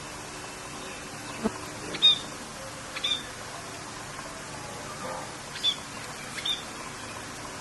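Short, sharp bird chirps, four or five in a row spaced about a second apart, over a steady hiss of rain.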